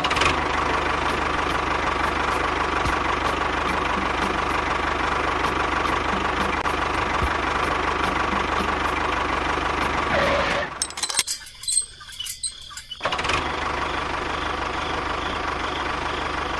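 An engine running steadily, dropping out for about two seconds past the middle and then running on.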